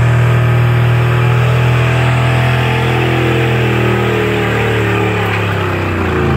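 Pulling truck's engine running hard at high revs under the load of a pull sled, steady and loud. Its pitch sags a little near the end and then comes back up.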